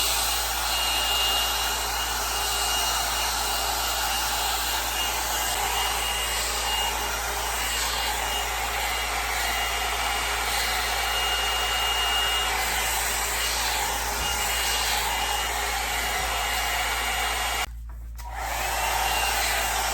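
L'ANGE HAIR Le Volume 2-in-1 hot-air blow dryer brush running steadily, a rushing of air with a thin high whine. The sound drops away for about half a second near the end, then comes back.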